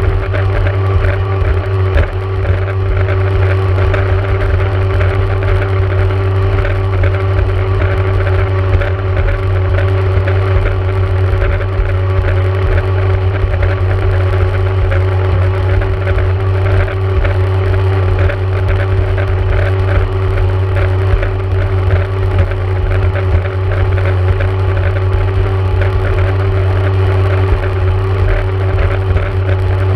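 Two-stroke engine of a 1994 Yamaha Wave Raider jet ski running steadily at a constant speed, with a crackling rattle over the engine note.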